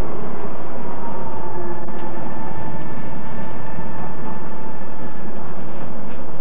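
Docklands Light Railway train drawing into an underground platform: steady rumble of wheels on the rails with a faint steady whine from the drive through the middle.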